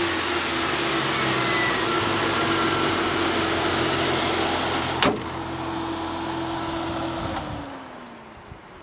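1996 Jeep Cherokee Sport's 4.0-litre inline-six idling steadily. About five seconds in there is one sharp knock, after which the engine sounds quieter. Near the end its note falls away as the engine winds down.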